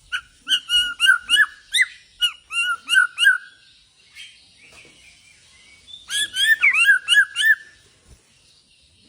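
A murai Borneo (Bornean shama) singing: two phrases of quick, repeated arched whistled notes, about four a second. The second phrase begins about six seconds in, after a pause of a couple of seconds.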